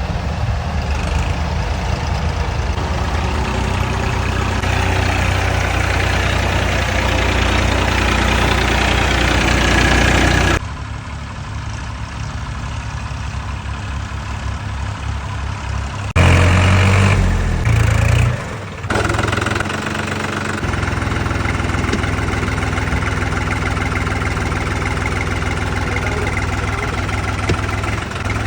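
Tractor engine running steadily, with sudden shifts in loudness about ten seconds in and again about sixteen seconds in.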